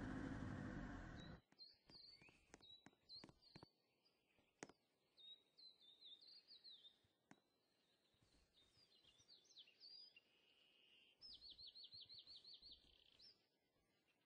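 A short burst of noise lasts about the first second, followed by a few sharp clicks. After that come faint bird chirps and short calls, ending near the close in a quick trill of about ten repeated notes.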